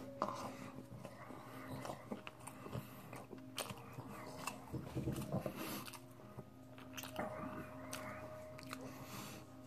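A person chewing a mouthful of sushi roll close to the microphone: soft, irregular chewing with small mouth clicks and smacks.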